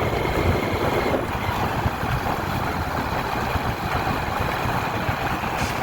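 Motor vehicle engine running, with a steady loud rushing noise and low rumble.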